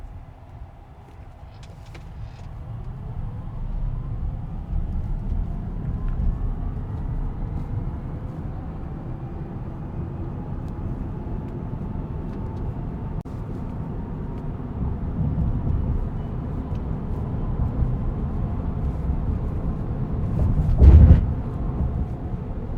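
Tesla Cybertruck driving, heard from inside the cab: road and tyre rumble building as it gathers speed, with a faint electric-motor whine rising in pitch. A single loud low thump comes near the end.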